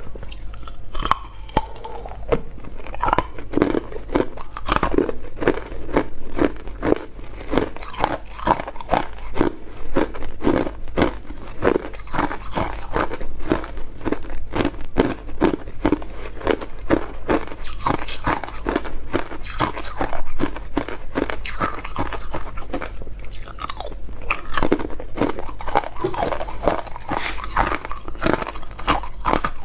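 Hard clear ice being bitten and chewed close to the microphone: a dense run of sharp crunches, several a second, with short pauses between mouthfuls.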